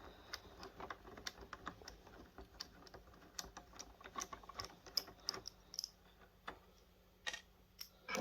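Quiet, irregular clicks and taps of a small screwdriver and plastic parts as a tiny screw is worked out of a video projector's plastic casing.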